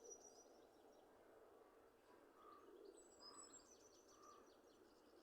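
Faint forest birdsong: a songbird's quick, high trilled phrase near the start and again from about three seconds in. In between come three short, lower notes about a second apart, over a soft steady background hiss.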